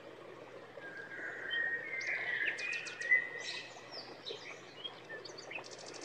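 Birds chirping and singing: a mix of short whistles, sweeping calls and a fast trill over faint background noise. The calls begin about a second in.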